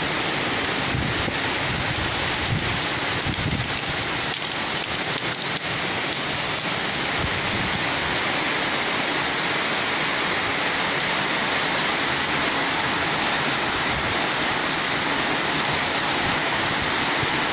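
Torrential monsoon rain pouring down on trees and roofs, a dense, steady hiss with no let-up. Low rumbles come through in the first few seconds.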